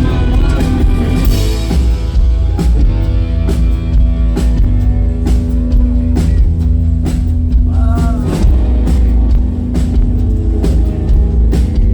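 Rock band playing: drum kit keeping a steady beat under bass and electric guitar, with a brief vocal line.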